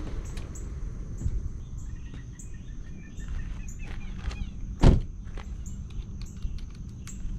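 Outdoor ambience with small birds chirping repeatedly and a steady low rumble underneath; one loud sharp knock about five seconds in.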